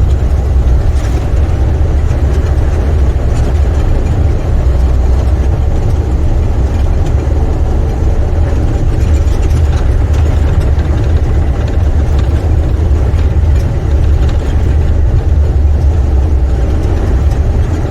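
Semi truck heard from inside the cab while driving downhill: a steady, loud, low rumble of the diesel engine mixed with road and wind noise.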